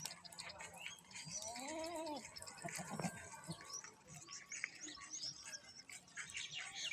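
A goat bleats once, a single call that rises and falls in pitch about a second and a half in, with a sharp click about three seconds in and scattered short high chirps and ticks.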